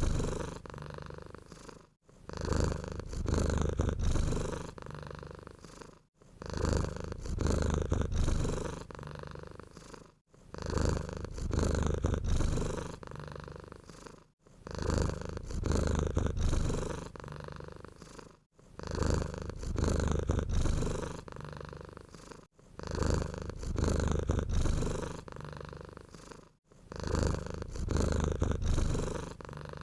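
Domestic cat purring in an even rhythm of breaths about every four seconds, each with a louder stretch and then a softer one, with a brief pause between breaths.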